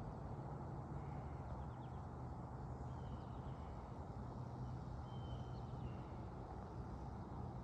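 Steady low outdoor rumble, with a few short, high bird chirps every couple of seconds.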